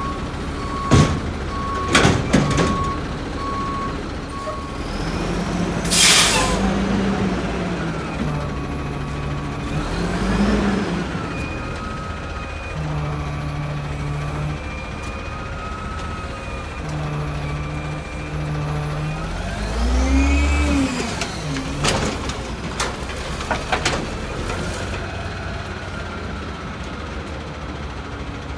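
A 1989 White/GMC Xpeditor garbage truck idling, its reverse alarm beeping for the first few seconds, with several sharp air-brake hisses and a longer hiss about six seconds in. The diesel engine is revved up and back down twice, around ten and twenty seconds in, followed by a few sharp knocks.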